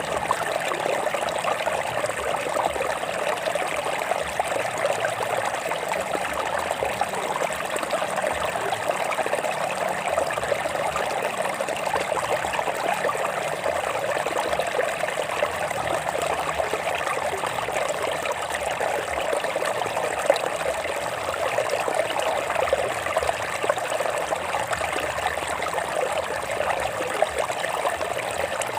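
Stream water flowing over rocks: a steady rushing, trickling flow that holds the same level throughout.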